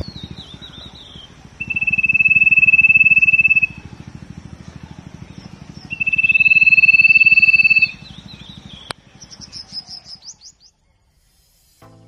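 Common iora (sirtu) singing: two long whistled notes held steady at one pitch, each about two seconds, then a quick run of short rising chirps near the end.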